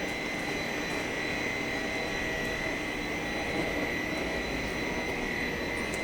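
Steady running noise of factory machinery: an even rush with a constant high whine, no starts or stops.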